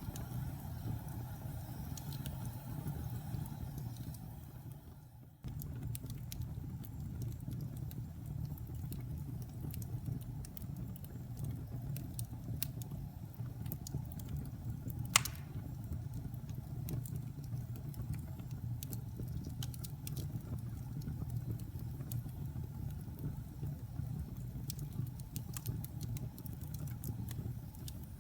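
Wood fire burning in a fireplace: a steady low rumble with scattered crackles and one sharp pop about fifteen seconds in. About five seconds in the sound dips away and then cuts back in suddenly.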